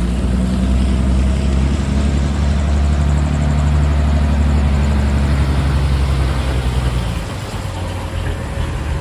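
Heavy truck's diesel engine running close by, a deep steady drone that drops away about seven seconds in.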